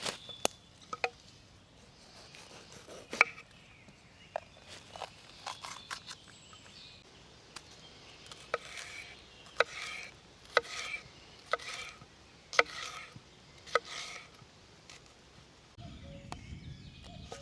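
Sharp knocks and taps of cooking utensils, some with a brief ringing tail, coming irregularly and then about once a second for several seconds in the middle.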